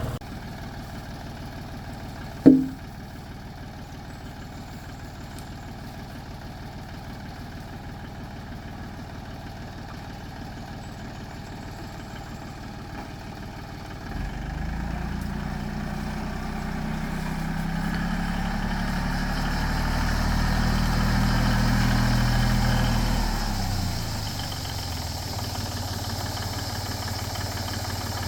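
Tractor engine idling steadily, then about halfway through running louder and harder, building for several seconds before dropping back to idle near the end. A single sharp knock sounds about two and a half seconds in, the loudest sound of all.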